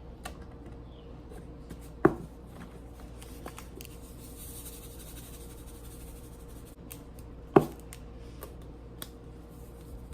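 Kitchen handling sounds while raw chicken is being seasoned: small clicks and taps of seasoning containers, with two sharp knocks, about two seconds in and again some five seconds later, over a faint steady hum.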